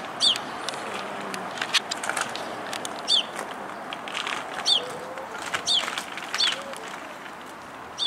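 Small songbirds chirping in the trees: short, sharp, downward-sweeping calls repeated every second or so, with other brief chirps in between, over a steady background noise.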